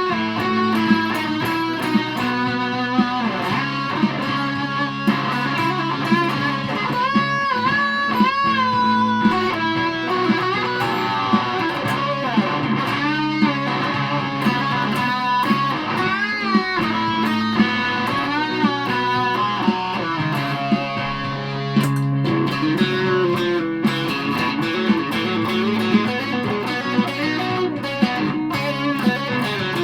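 Aria Pro II Thor Sound electric guitar played through a Joyous Dream super fuzz pedal, giving a fuzzy distorted tone. It plays a continuous melodic passage of sustained notes, with a run of wavering vibrato bends in the middle.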